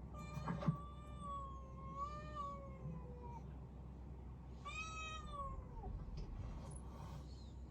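A cat meowing twice: a long, drawn-out meow that slowly falls in pitch, then a shorter one that drops off at the end. A sharp knock comes just before the first meow.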